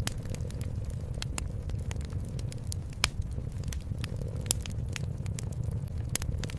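Wood fire crackling with sharp, irregular pops several times a second, the sharpest about three seconds in, over a steady low rumble of a cat purring.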